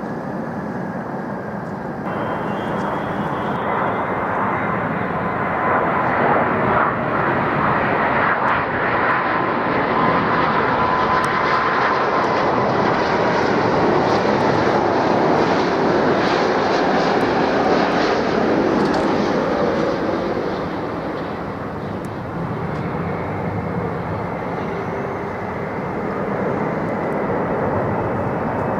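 Jet airliner flying past close by, its engine noise building over several seconds, holding loud, then fading, with a whine that drops in pitch as it goes by.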